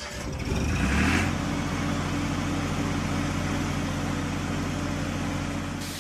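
Cartoon vehicle engine sound effect: it revs up over the first second, then runs at a steady pitch.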